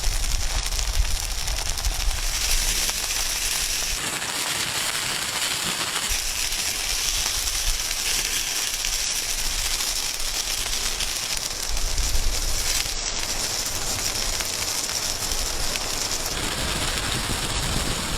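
Steady crackling and sizzling from cooking on a hot rock over a fire, shifting in level abruptly a few times.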